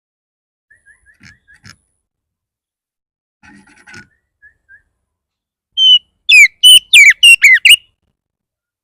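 Oriental magpie-robin (kacer) singing its agitated, aggressive song. A few faint soft chirps are followed, about six seconds in, by a loud two-second burst of about eight quick, sharply falling whistled notes.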